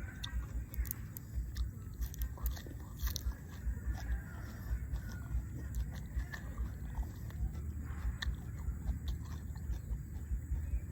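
A person chewing crunchy food, with frequent short crisp crunches.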